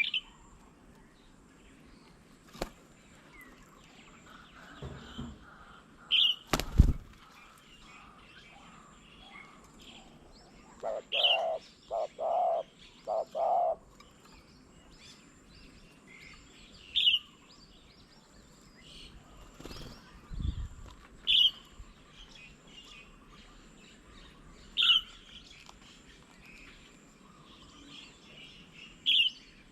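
Wild birds calling: one short, high chirp repeats every four to six seconds, and a run of four lower notes comes about halfway through. A dull thump sounds about seven seconds in, and a softer one near twenty seconds.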